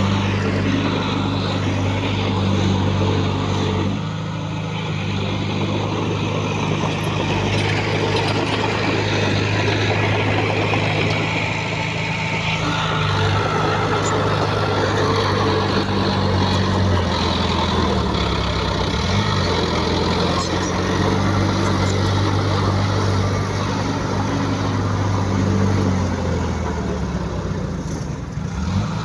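Heavy diesel engine of an earthmoving machine running steadily under load, with a rough noisy wash over it. Its pitch dips briefly about two-thirds of the way through and again near the end.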